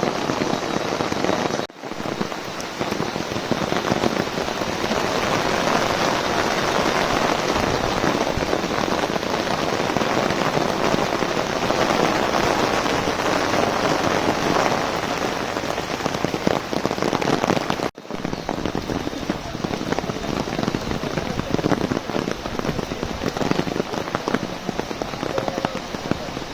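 Heavy rain pattering densely and steadily on an umbrella overhead, with two very brief dropouts in the sound, about two seconds in and near the middle.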